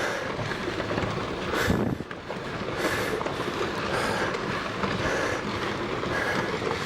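Rockslide on a mountainside: a steady rush of tumbling rock with scattered knocks of stones striking.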